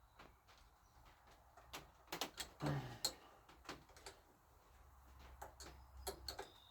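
Scattered clicks and clinks of hand tools and small metal parts being handled, with a cluster of sharper knocks and a short thud about two to three seconds in.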